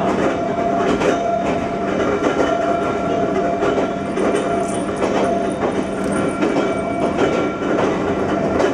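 Ohmi Railway 220 series electric railcar running along the line, heard from inside the cab: a steady hum from its nose-suspended (tsurikake) traction motors and gearing over a rumble of wheels on rail, with irregular clacks as the wheels pass over rail joints.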